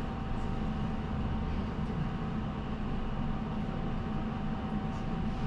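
Inside a moving route bus: the steady drone of the engine and road noise, with a thin steady whine running through it.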